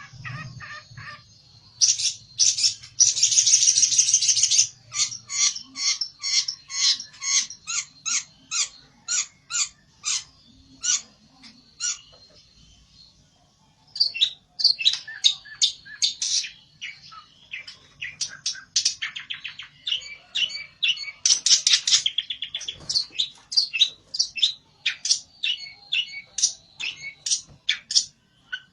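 A pelentet, a small songbird, giving a loud, agitated challenging song of sharp chirps, typical of a bird riled up against a rival. It opens with a dense buzzy run, settles into about two chirps a second, breaks off briefly partway through, then resumes in quick runs.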